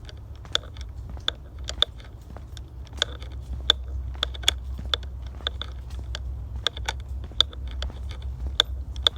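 Footsteps crunching along a forest trail at a walking pace, about two steps a second, over a low steady rumble.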